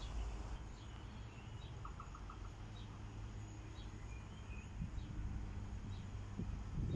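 Small birds chirping now and then, with a quick run of four or five short notes about two seconds in, over a steady low rumble of outdoor background noise.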